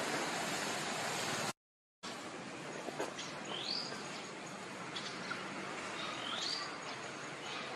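Steady background hiss that cuts out for half a second about a second and a half in. Afterwards a bird gives two short rising chirps, about three seconds apart, with a few faint clicks.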